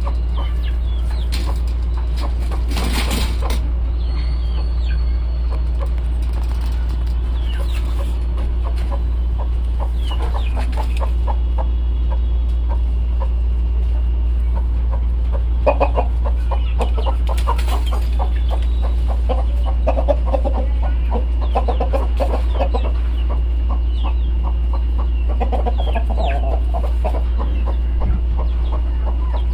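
Aseel chickens clucking in short bursts, more often in the second half, over a steady low hum.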